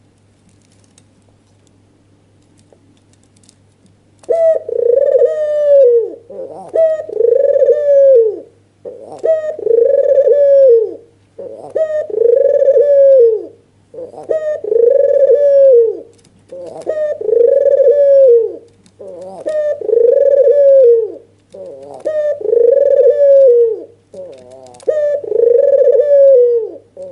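White, red-eyed ringneck dove (puter) giving its excited bowing coo. About four seconds in it starts a run of coos, one arched phrase about every two seconds, about eleven in all.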